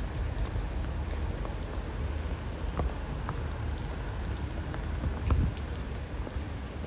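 Steady rainfall with scattered individual drops ticking close by, over a low rumble. A brief louder thump comes about five seconds in.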